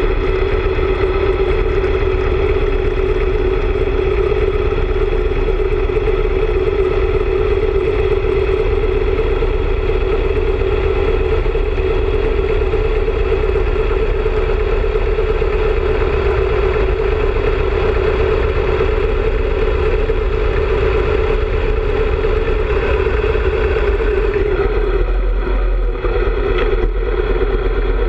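Harley-Davidson motorcycle engine running steadily while the bike is ridden.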